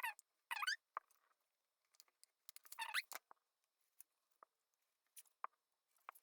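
Short, faint squeaks and rubbing sounds with gaps between them, from pressing glued paper circles onto a plastic-bottle model airplane.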